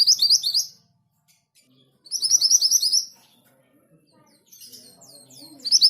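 Orange minivet calling: three bursts of quick, high, upward-sweeping notes, each burst about a second long and a few seconds apart.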